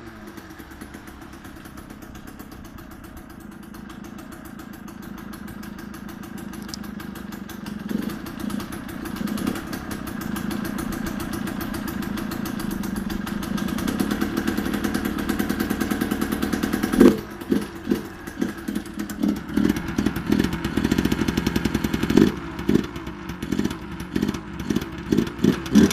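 Yamaha DT80 LC2's 80 cc two-stroke single running on choke: a steady idle that slowly grows louder through the first two-thirds, then a string of short throttle blips from about two-thirds of the way in.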